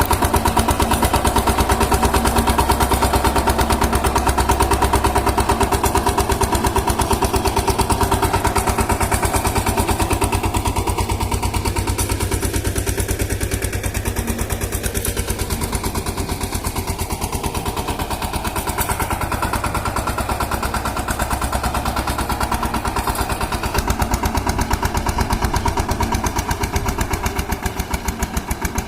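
Power tiller engine running steadily, a rapid, even chugging.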